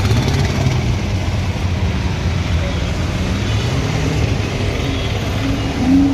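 Car engines running in traffic with a steady low rumble. One engine rises briefly in pitch about four seconds in, and a brief voice is heard near the end.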